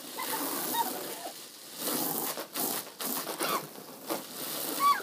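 Water from a garden hose spattering on a cardboard box fort, coming in irregular surges. A short high squeal comes near the end.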